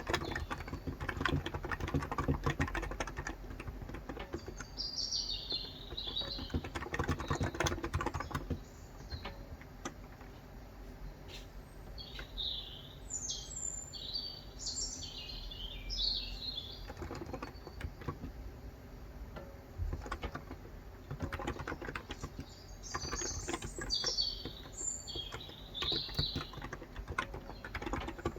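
Typing on a Cox Endeavor electro-capacitive tenkeyless keyboard with light 35 g switches, in bursts of rapid keystrokes with a lull in the middle. Birds chirp in short phrases throughout.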